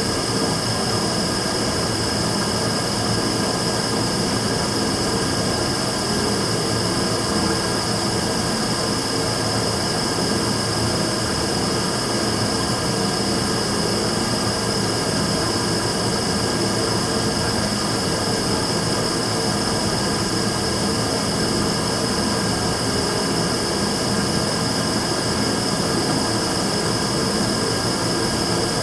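Immersion-tube burner running steadily and making an abnormal noise: an unbroken rushing sound with a sustained high-pitched tone over it, unchanging throughout.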